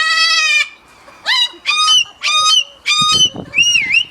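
A bird calling loudly: one long harsh call fading out about half a second in, then four short honking calls, then two wavering whistles that swoop down and back up near the end.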